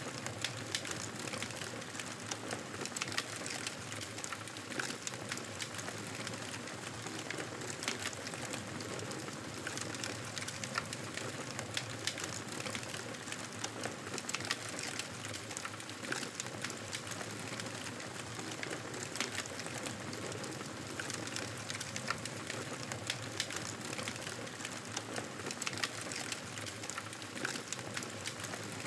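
Campfire burning: a steady hiss with frequent, irregular sharp crackles and pops.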